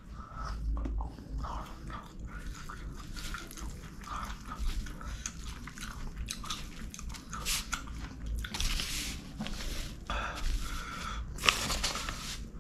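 Close-miked chewing and mouth sounds of someone eating chicken kottu by hand, with fingers squishing through the food on a plastic sheet. A couple of louder rustling bursts come in the last few seconds.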